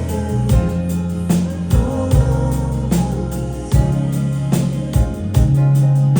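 Live band music: drums, bass and guitar playing an instrumental passage, with regular drum strikes over sustained bass notes.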